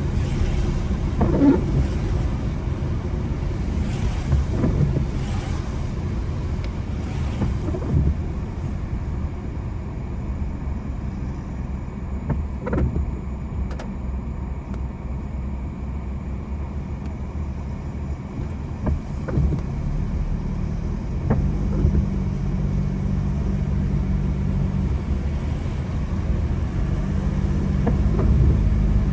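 Car driving on wet roads: steady engine and road rumble with a few short knocks, and a clearer engine hum that comes up about twenty seconds in.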